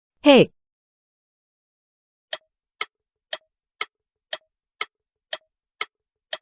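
Clock-tick sound effect, evenly spaced ticks about twice a second, starting about two seconds in after a short spoken word. It times a pause in a vocabulary review.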